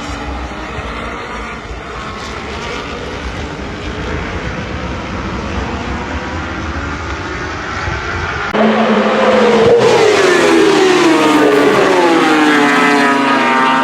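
Racing engines at a circuit, a steady rumble of passing race vehicles. About two-thirds of the way in, a sudden louder change brings engines whose pitch sweeps down as they pass and slow.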